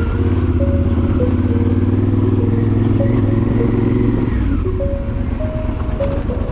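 Honda Varadero XL1000's V-twin engine running steadily under way. The engine note eases briefly about four and a half seconds in, then picks up again.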